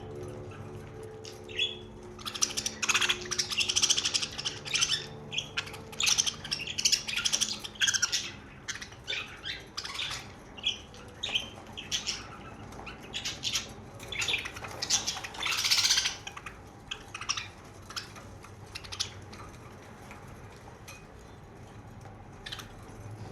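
Pet budgerigars chattering: many quick, short chirps and squawks, thickest in the first half and again about fifteen seconds in, thinning out toward the end.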